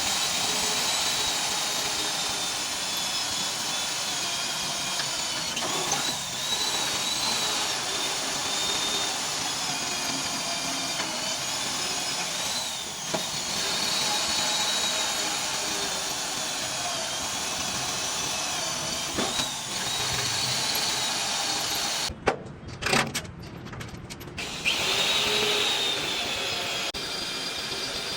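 A handheld power tool running steadily with a high, wavering whine. It cuts out for a couple of seconds about three-quarters of the way through, with a few clicks, then runs again.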